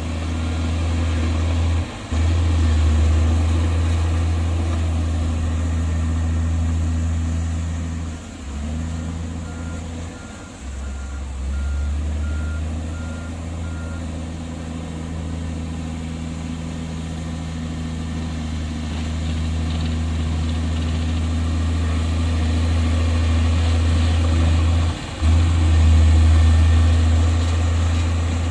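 Heavy diesel earth-moving machinery, bulldozer and dump truck, running with a deep, steady engine rumble that dips briefly a few times. About nine seconds in, a reversing alarm beeps steadily for about five seconds.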